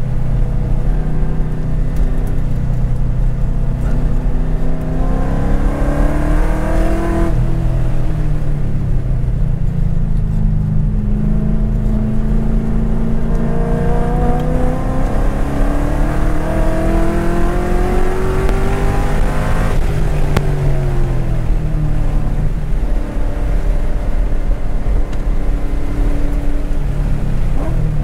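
A 2010 Corvette Grand Sport's 6.2-litre V8 under load, heard from inside the cabin. The revs climb and drop sharply about seven seconds in. They climb again for about ten seconds, fall away over a few seconds, hold steady, then rise again near the end.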